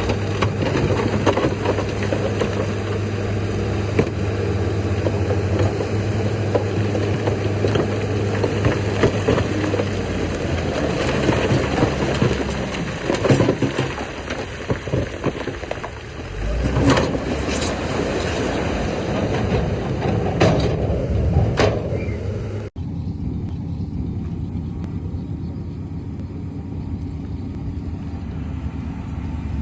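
Diesel engine of heavy earthmoving machinery running steadily under load, with repeated clanks and knocks. About three-quarters of the way through, the sound changes abruptly to a duller, steadier engine drone.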